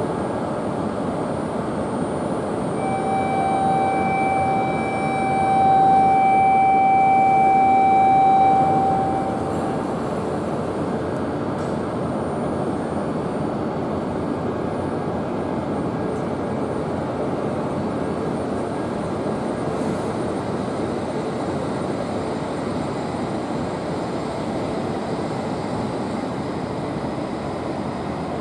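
E5-series shinkansen running slowly along the platform, a steady rumbling train noise. For about six seconds near the start, a steady electronic tone sounds over it.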